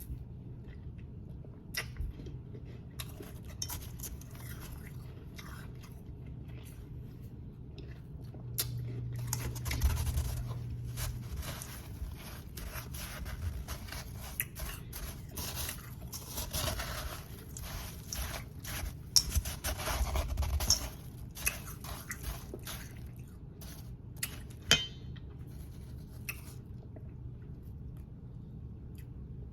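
Close-up chewing and crunching of powdery ice, with crisp crackles and some scraping. The crunching is densest through the middle stretch, and there is one sharp snap late on.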